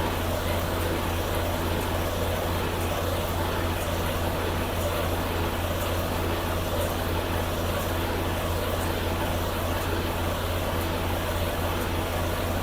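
Semi-truck's diesel engine running with a steady low drone and road noise.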